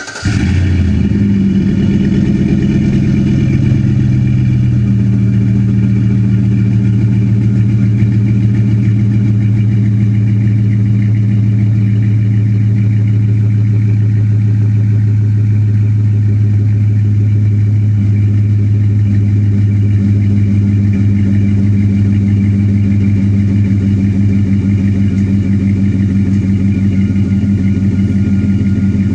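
2004 Chevrolet Silverado 1500's engine idling steadily through an aftermarket Xlerator VX series muffler exhaust, just after a cold start. The cold-start fast idle runs slightly higher at first and settles a little lower about five seconds in.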